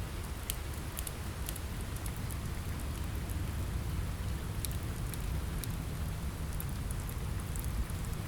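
Steady rain mixed with a crackling wood fire: a continuous low rumble of rain with frequent sharp pops scattered irregularly through it.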